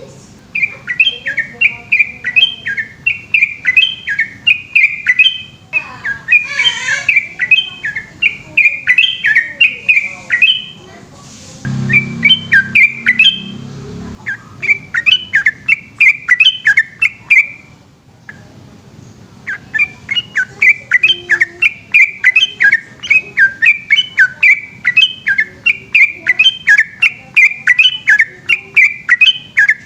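Yellow-vented bulbul (trucukan) singing a long, fast run of bubbly chirping phrases, several a second, breaking off briefly a few times before resuming.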